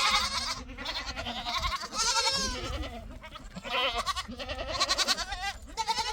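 A flock of sheep bleating, many quavering calls overlapping one another throughout.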